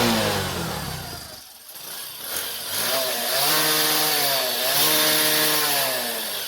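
Bajaj Discover 125's single-cylinder engine being revved: the first rev dies away, and after a short lull it is blipped up twice and let back down. Its loose engine mounting nuts have just been tightened, and the earlier rattle from the body and chain cover is meant to be gone.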